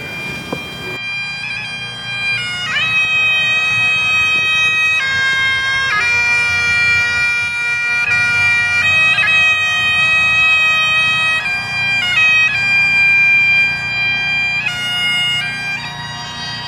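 Music: a wind instrument playing a slow melody over a steady, unchanging drone, starting about a second in, with quick flicks between some notes.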